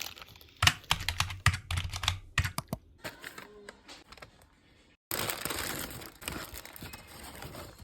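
A quick run of sharp taps and clicks, like fingernails or utensils on hard packaging, for about two seconds, then softer handling sounds; after a brief gap a steady hiss lasts the final three seconds or so.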